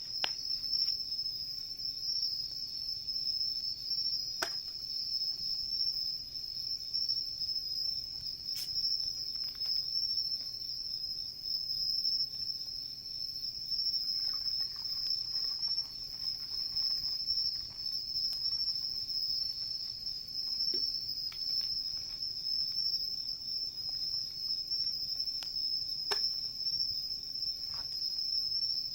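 Night insects, crickets or katydids, calling in a steady, unbroken high-pitched trill. A handful of sharp crackles from the wood fire break in now and then.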